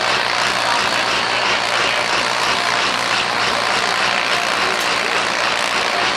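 Vintage farm tractor engine running steadily and loudly, with no clear rise or fall in revs.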